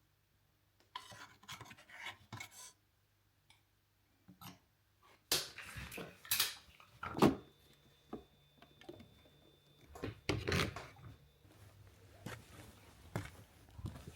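Irregular knocks, light clatter and scraping of objects being handled, loudest about seven seconds in.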